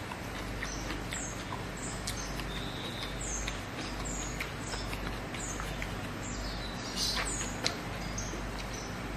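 Close-up eating sounds of a man chewing rice and rendang by hand, with small wet mouth clicks, over a steady low hum. Short, high, downward-sliding chirps of a small bird come again and again throughout.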